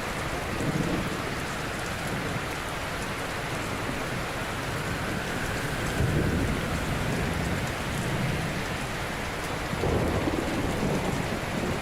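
Ocean waves breaking gently on a shore: a continuous wash of surf, with heavier low surges of breaking waves about a second in, around the middle and near the end.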